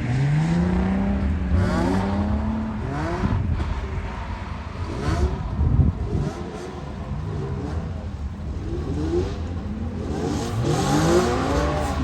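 Drift car's engine revving up and down over and over, with several rising pitch sweeps as the throttle is worked during drifting.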